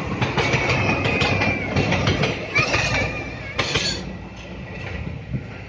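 Train passing close by on steel rails: a dense run of wheel clicks and rumble with a thin, wavering high squeal from the wheels, dying away about four seconds in.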